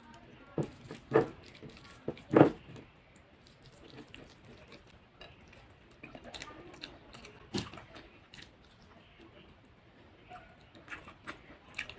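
Eating sounds of curry and rice: chewing and mouth noises, with scattered clicks and taps of cutlery or hands against a plate, the loudest few in the first two and a half seconds.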